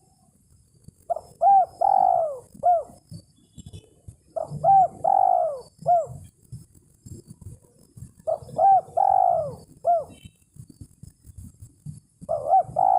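Spotted dove (tekukur) cooing: four phrases, each of a few short coos that rise and fall plus one longer coo, repeating about every four seconds, the last phrase running past the end. This is the male's challenge call to a rival, used as a lure for catching doves.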